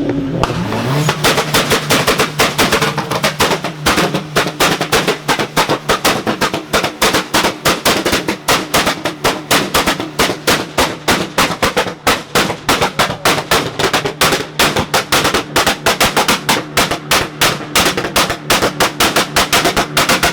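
Car engine held on a two-step launch limiter: the revs climb in the first second, then hold steady while the exhaust pops and bangs rapidly, about five times a second, like machine-gun fire.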